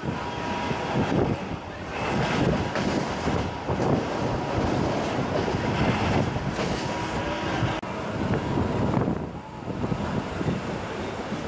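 Suburban electric local train running at speed, heard from inside at an open window: a steady rumble and rush of the train on the rails, mixed with wind buffeting the microphone.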